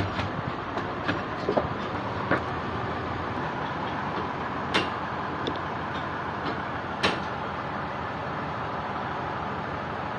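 Sawmill machinery running with a steady mechanical din, with occasional sharp knocks, two louder ones near the middle.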